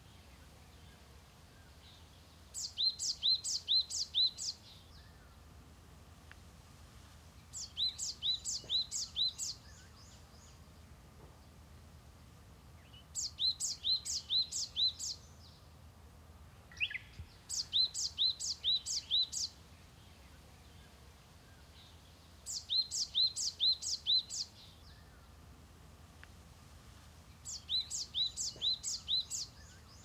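A small bird singing the same short phrase of five or six quick, clear notes, repeated about every five seconds, with one brief separate falling call midway. A faint steady low rumble lies underneath.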